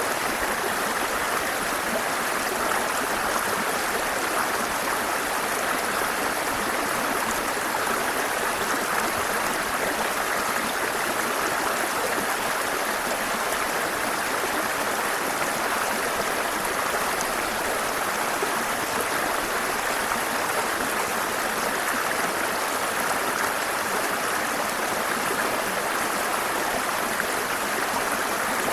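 Water of a mountain waterfall and its stream rushing, an even, unbroken roar that holds steady throughout.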